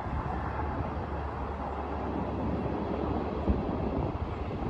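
Distant diesel train running steadily, heard as a constant low rumble.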